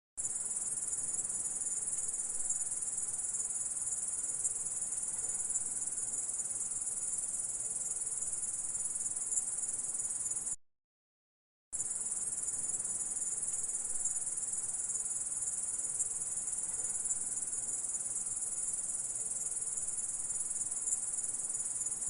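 Insect stridulation: a continuous high-pitched trill that holds an even level. About ten seconds in it cuts out for roughly a second, then starts again.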